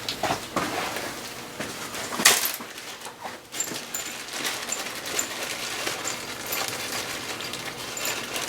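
Light metallic clicks and clinks of hand tools and a bolt being worked on a freshly installed thread-coil insert in an oil filter housing bolt hole, with one sharper click about two seconds in.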